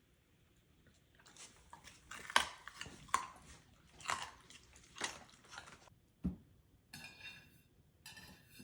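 Husky-mix dog biting and chewing crunchy food, with sharp crunches about once a second, then a dull thump about six seconds in and a little more chewing near the end.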